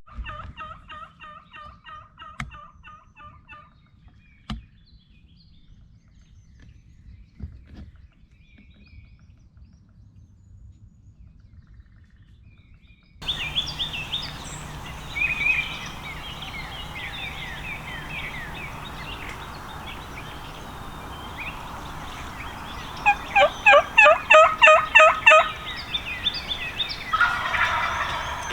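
Wild turkeys gobbling: a fainter gobble at the start, then a louder, closer rapid gobble about 23 seconds in. Small songbirds chirp in between.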